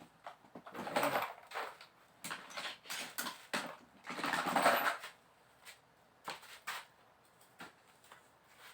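Screwdriver and metal parts of a water pump motor being handled: irregular scraping and clicking as the Phillips screws are taken out of its casing, loudest about a second in and again around four to five seconds in.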